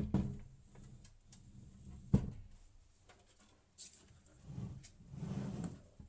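Hands handling PC hardware: scattered clicks and knocks, one sharp knock about two seconds in, then rustling and scraping near the end.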